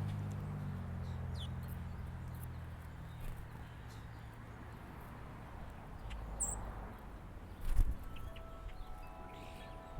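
Faint, brief chirps of small songbirds over a low engine hum that fades in the first couple of seconds, with one dull thump a little before the end.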